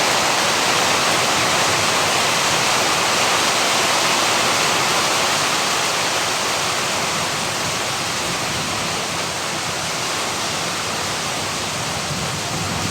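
Heavy rain pouring steadily in a strong, stormy wind: a dense, even hiss that eases slightly about halfway through.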